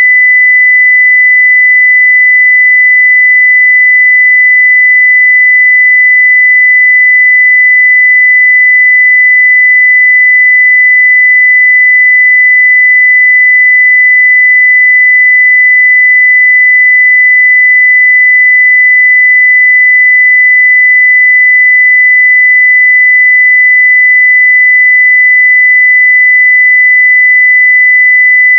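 A 2 kHz sine-wave test tone at 0 dB (full scale), held steady at one pitch and level.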